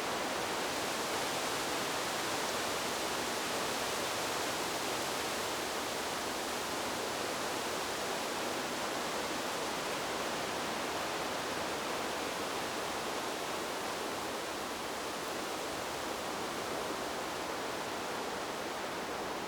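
Wind blowing through trees: a steady, even rushing hiss with no gusts or breaks.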